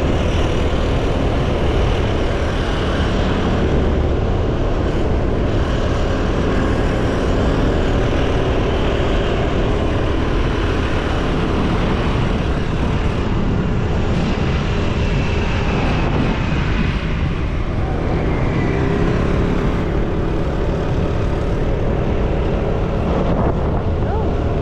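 Motorcycle running at a steady speed, its engine drone mixed with a steady rush of wind and road noise.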